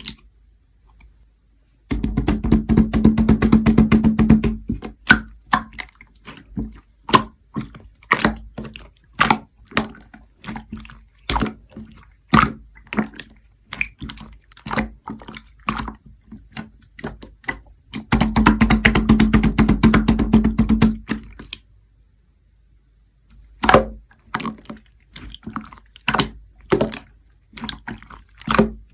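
Clear slime being squished and pressed by hand: irregular wet clicks and pops. Twice it breaks into a few seconds of rapid, dense crackling, and it goes quiet for about two seconds near the end.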